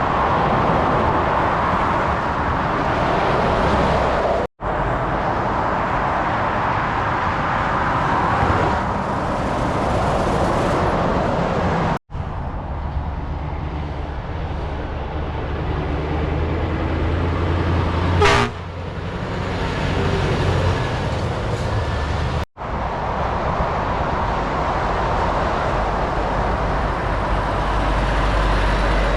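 Motorway traffic with heavy lorries passing: a steady rush of tyre and engine noise with a low engine drone, broken by three abrupt cuts. About two-thirds of the way through comes one brief sharp sound over the traffic.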